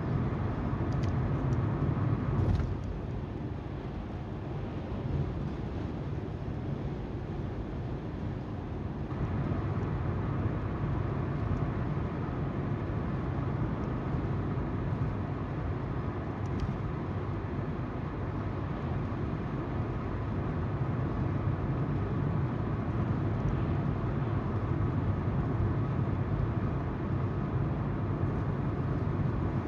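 A car driving, heard from its dashcam: steady tyre noise from the road and the hum of the engine. It gets quieter a couple of seconds in and picks up again about nine seconds in.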